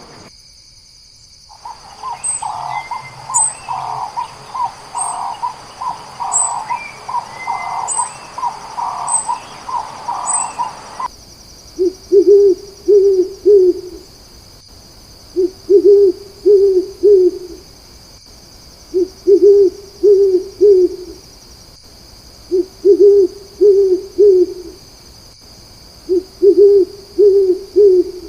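Owl hooting: five phrases of about three low hoots each, repeating roughly every three and a half seconds. Before them a different, higher call repeats about once a second with faint high chirps, then cuts off suddenly.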